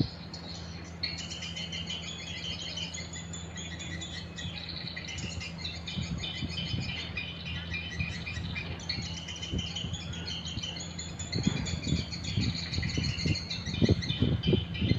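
Swiftlets chirping in a dense, fast twitter, starting about a second in, over a steady low hum. Low rumbling bursts come in near the end.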